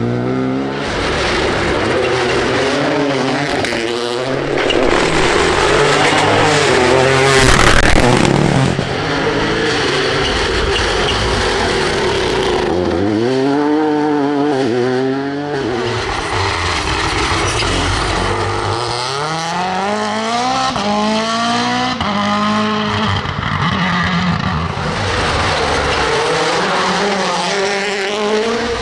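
Rally cars at full throttle, engines revving up and dropping back through gear changes over and over, with a loud rush of noise about seven to eight seconds in as one passes close.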